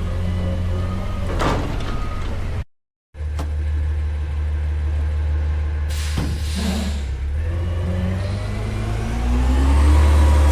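Front-load garbage truck's diesel engine running, with a short burst of hiss about six seconds in and the engine revving up toward the end as it drives the hydraulics. The sound drops out completely for a moment about three seconds in.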